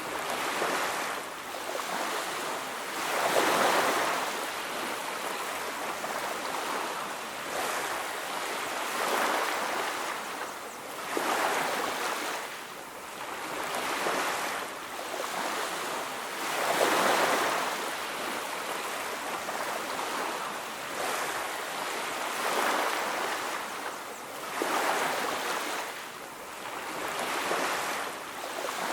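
Ocean waves breaking and washing on a beach: a steady surf hiss that swells and falls back every few seconds as each wave comes in.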